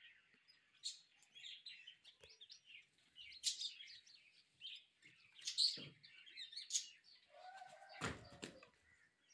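Small birds chirping and tweeting throughout, with a dull thud about eight seconds in.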